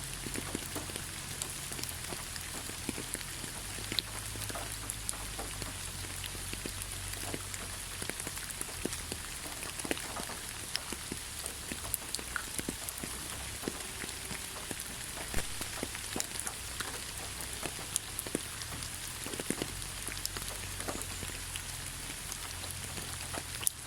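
Steady rain falling on a pine forest, with a constant hiss and many separate drops striking leaves and needles.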